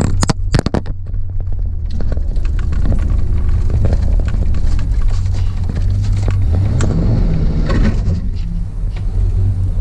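Car engine running under load, heard from inside the cabin as a steady deep rumble, with a few knocks in the first second. About seven seconds in, the engine note rises as it revs.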